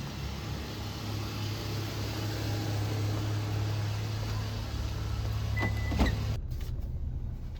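Car running with a steady low drone and road hiss, as heard inside the cabin. About five and a half seconds in there are two sharp clicks with a short high beep between them, and then the hiss drops away suddenly while the low drone carries on.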